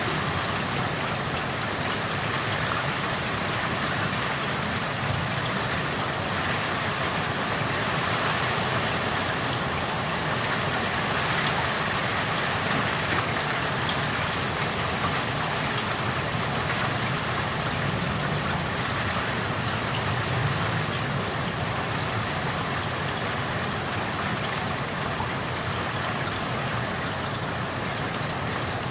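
Steady rain falling, heard through an open window, with individual drops ticking sharply on nearby surfaces and a low, even rumble underneath.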